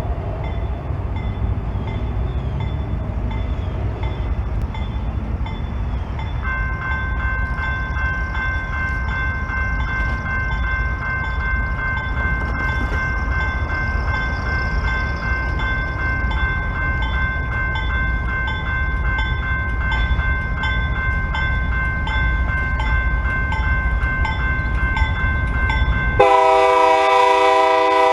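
Railroad grade-crossing bell starts ringing steadily about six seconds in, over a low rumble, as the crossing signals activate for an approaching freight train. Near the end the locomotive's air horn sounds loud and close.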